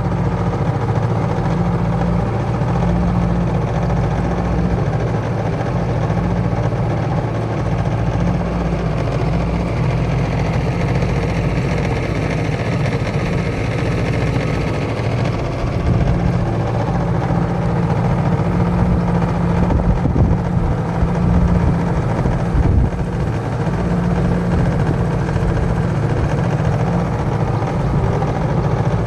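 1978 Mercury 7.5 hp two-stroke outboard motor running steadily at cruising speed, pushing a jon boat.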